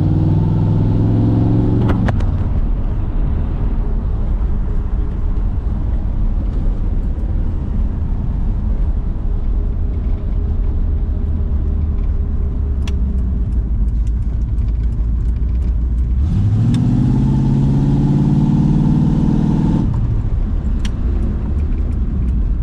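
1974 Corvette Stingray's 350 V8 through its side-pipe exhaust under way: it pulls with rising pitch until about two seconds in and then drops back to a steady low rumble while cruising. It accelerates again with climbing pitch from about sixteen to twenty seconds in and then eases off.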